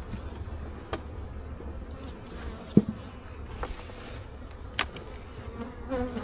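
Honey bees buzzing steadily around an open hive, with a few sharp clicks and knocks as the hive is worked. The loudest knock comes about three seconds in.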